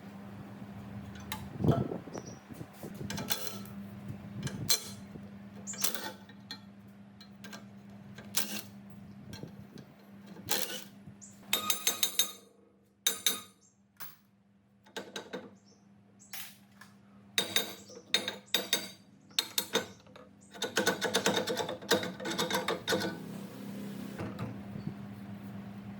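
Metal tools and machine parts knocking and clinking as they are handled, with several runs of quick rattling clicks, over a steady low hum.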